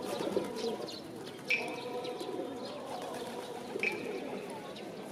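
Birds calling: a short, sharp high call repeats about every two and a half seconds, with small chirps between, over a steady outdoor background.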